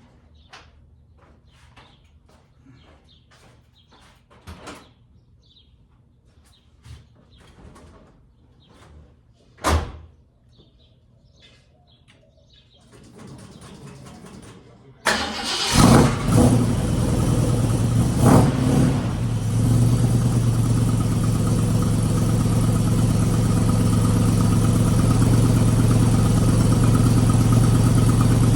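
1967 car with exhaust headers starting from stone cold after sitting two weeks: after a thump and a short whirr, the engine catches suddenly about halfway through, blips twice, then settles into a steady fast idle.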